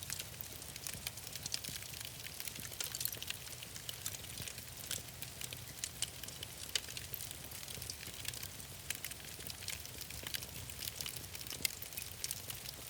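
Wood fire crackling in a fireplace: a steady hiss with many irregular sharp pops and snaps, over a low rumble.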